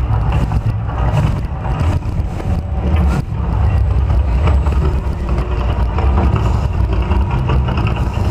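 Loud, steady low rumble from the Mirage volcano show, with a rushing noise above it.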